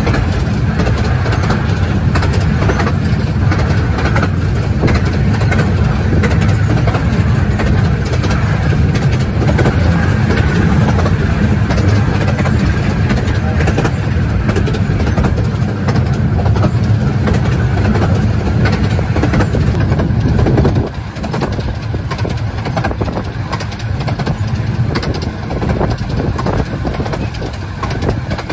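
Miniature 15-inch gauge railway carriage running along the track, a steady loud rumble of wheels and rail noise with air rushing past the open window. The low rumble eases about two-thirds of the way through.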